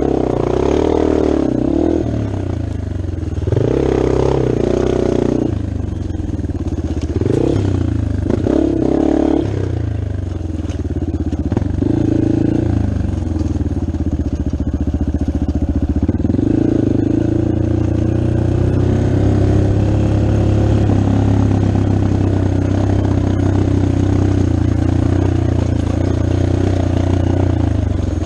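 Dirt bike engine running under way, revving up and easing off several times over the first ten seconds or so, then holding a steady pitch.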